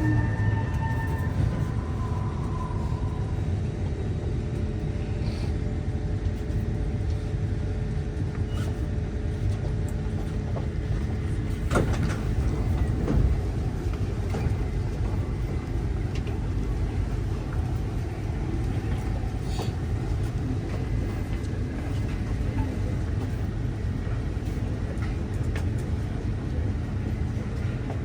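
Steady low rumble inside a Kawasaki C151 MRT train standing at a platform with its doors open, with a few faint clicks and knocks.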